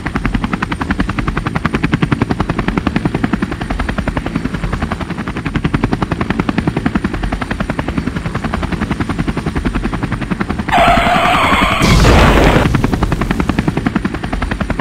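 Helicopter rotor sound effect, a steady rapid chopping. About eleven seconds in comes a short harsh screech, then a loud crash that dies away over about a second while the rotor chop goes on.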